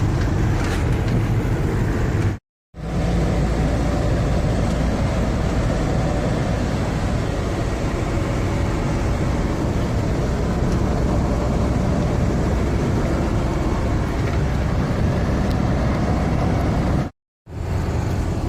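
Steady engine and road noise from a vehicle on the move, a continuous low rumble. The sound cuts out completely twice for a moment, once about two and a half seconds in and again near the end.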